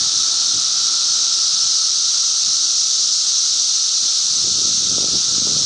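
Dense chorus of periodical cicadas: a loud, steady, shrill hiss with a constant droning tone beneath it.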